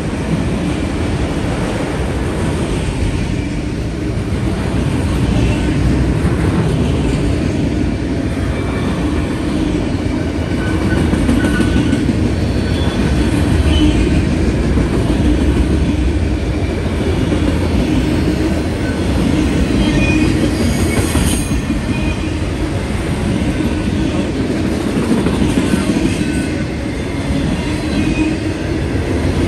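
Autorack freight cars of a passing freight train: a steady rumble of steel wheels on rail. Short, thin, high wheel squeals come through a few times.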